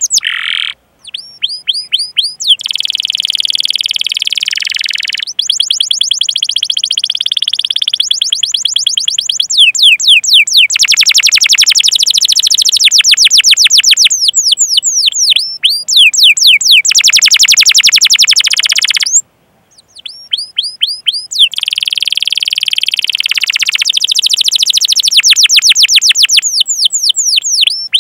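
Domestic canary singing a long song: fast runs of repeated falling 'cuit cuit' chirps alternating with steady rolling trills (ngerol). The song breaks off briefly about a second in and again about two-thirds of the way through.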